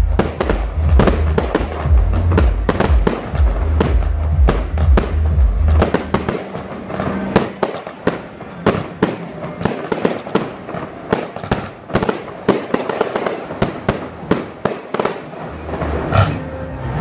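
Fireworks display: a rapid, dense run of sharp bangs and crackling bursts. Loud music with a heavy bass plays underneath; the bass drops out about six seconds in and comes back near the end.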